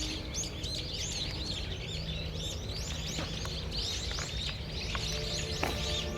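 Many small birds chirping at once, a dense chatter of short, overlapping high calls over a steady low rumble.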